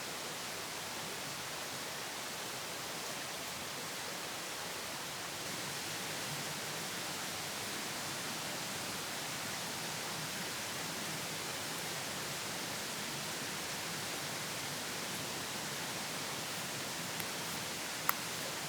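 Steady, even rushing hiss of outdoor ambience, with one sharp click near the end.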